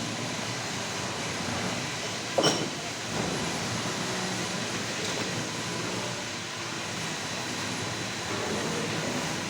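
Diamond wire saw cutting concrete: a steady grinding running noise, with one short loud knock about two and a half seconds in.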